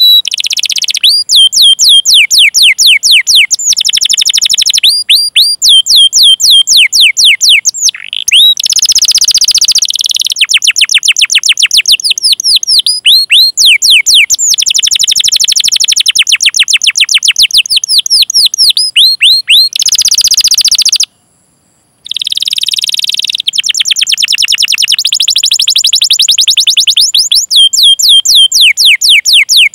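Domestic canary singing: long trains of rapid, sharp falling 'cuit cuit' chirps alternating with dense rolling trills. The song breaks off for about a second about two-thirds of the way through, then resumes.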